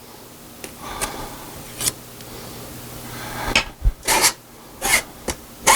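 Mashed potatoes being pushed through a mesh sifter with a hand tool: a few light clicks, then, from just past halfway, a run of rasping scrapes about two a second.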